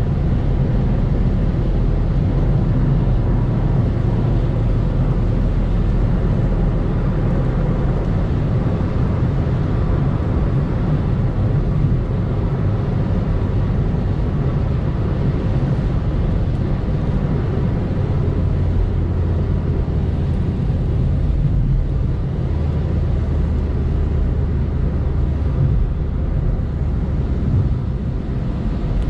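Steady low rumble of a Volkswagen Polo diesel being driven, engine and road noise heard from inside the car, with no sharp changes.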